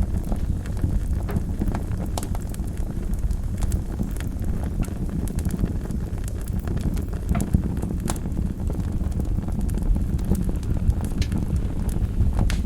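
Wood fire burning in a fireplace: a steady low rumble of the flames with sharp crackles and pops at irregular intervals.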